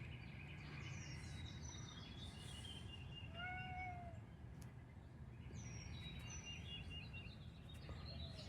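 A cat gives a single drawn-out meow about three and a half seconds in, rising and falling in pitch. Faint bird chirps run throughout.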